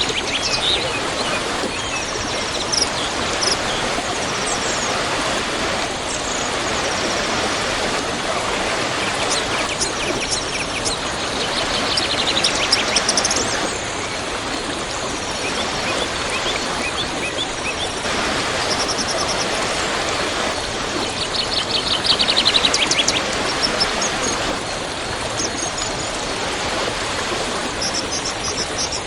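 Waterfall rushing steadily, with songbirds calling and chirping over it throughout.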